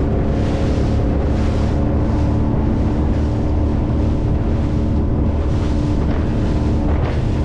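Speedboat engine running steadily at one even pitch, with wind buffeting the microphone in gusts about once a second.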